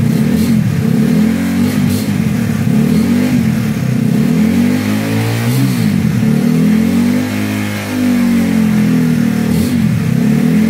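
Motorcycle engine running close by, its note wavering up and down.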